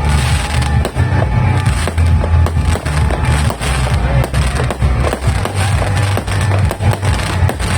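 A 5,000-shot fireworks cake firing in a rapid, unbroken string of bangs and crackles, several shots a second, with music playing underneath.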